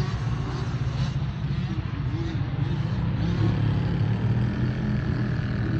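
Dirt bike engine running, its pitch rising and falling a little as it is revved.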